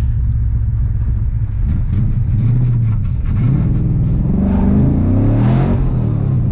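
LS V8 swapped into a BMW E46, driving: a steady low engine note for a couple of seconds, then the pitch rises in sweeps as it accelerates hard, loudest about five seconds in.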